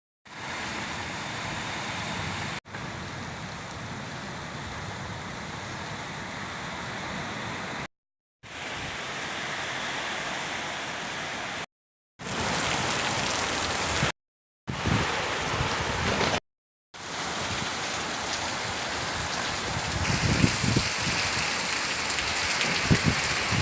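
Heavy rain falling steadily in a storm, in several short stretches cut off by brief silences. Near the end, gusts of wind rumble on the microphone.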